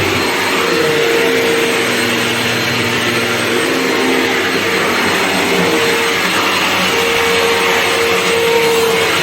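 Vax vacuum cleaner running steadily: loud rushing air with a constant motor whine.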